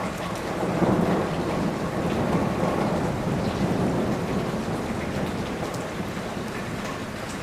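Steady heavy rain with a long roll of thunder that swells about a second in and slowly dies away.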